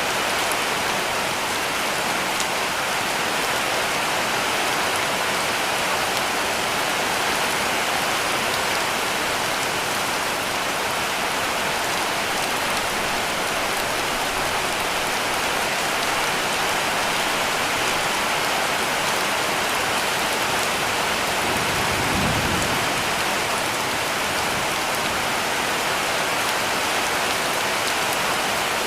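Heavy rain falling steadily on a cabin roof, a dense, even hiss. A brief low rumble comes about three-quarters of the way through.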